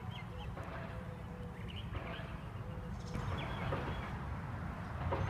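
Outdoor background: a steady low rumble with faint bird chirps scattered through it.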